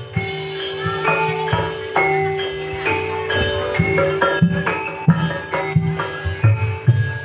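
Gamelan music for an ebeg dance: mallet-struck metallophones ringing a repeating melody over low hand-drum strokes.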